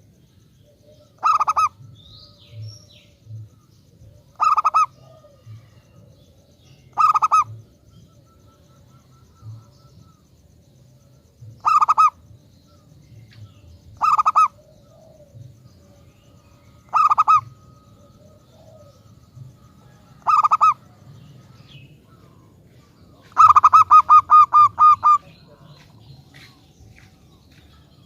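Zebra dove (perkutut) singing. Short, rapid trilled coos come every few seconds, each about half a second long and pitched around 1 kHz. Near the end comes a longer run of about eight quick notes.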